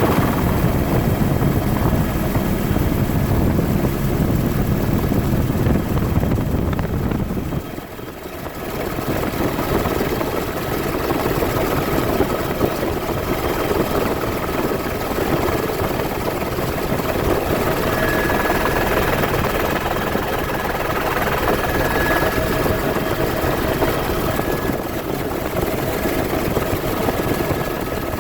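Helicopter running: continuous rotor and engine noise with steady high whining tones over it. A heavy low rumble drops away about eight seconds in, leaving a steadier mid-pitched rush with the whine.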